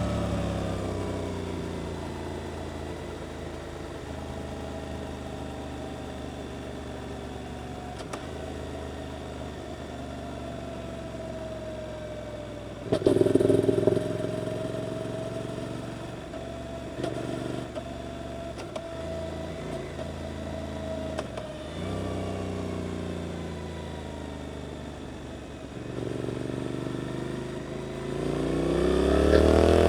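Suzuki GSX-8S 776 cc parallel-twin with an Arrows aftermarket exhaust, heard from on board. Revs fall as the throttle closes, the engine runs softly off the throttle with one brief loud burst about halfway through, then the pitch climbs as it accelerates hard near the end.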